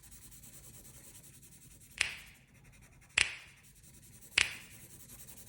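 Sharp clicks or snaps at an even pace, a little over a second apart: three starting about two seconds in, and a fourth right at the end.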